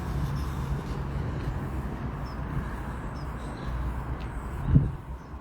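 Steady low rumble of road traffic passing, with one short low thump near the end.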